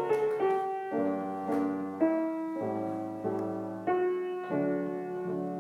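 Background piano music: single notes struck one after another at a slow, gentle pace, each fading before the next.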